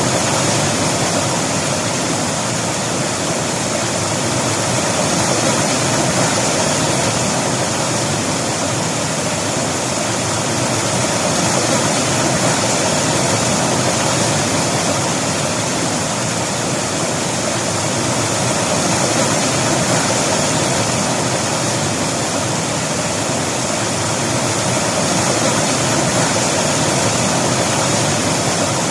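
River water rushing and splashing in a steady full hiss, swelling and easing gently every few seconds.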